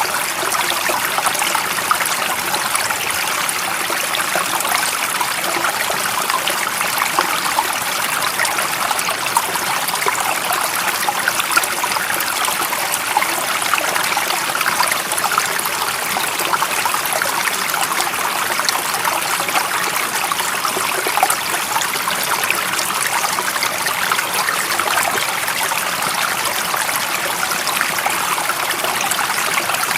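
Stream water flowing steadily: an even, hissy rush with many tiny splashes and no change in level.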